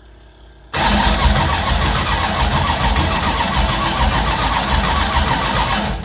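Freshly rebuilt V8 race engine on its first start: it fires abruptly just under a second in and runs loud and steady for about five seconds, then falls away at the end.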